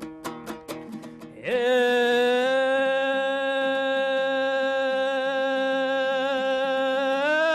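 Folk-song accompaniment: a dombra strummed in a quick rhythm, then a singer holds one long note, steady at first and wavering into vibrato near the end.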